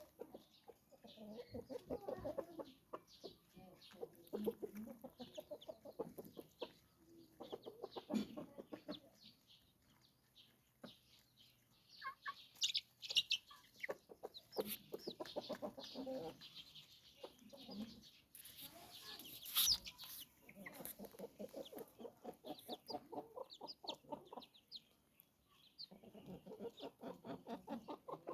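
Chickens clucking in repeated rapid bouts, with a few sharper high chirps midway and a short burst of rustling noise a little past the middle.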